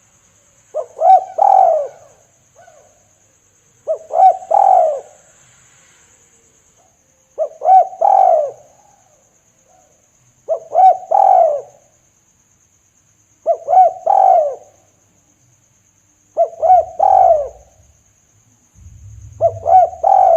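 Spotted dove (tekukur) cooing its lure call: a phrase of a couple of quick notes leading into a longer falling coo, repeated about every three seconds.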